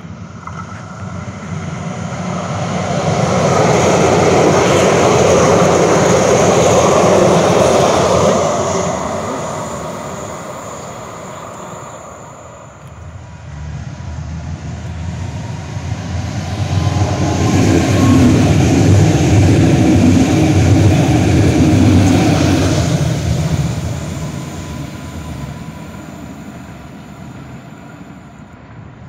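Two trains pass one after the other, each rising as it approaches and fading away over several seconds; the second is deeper-toned than the first.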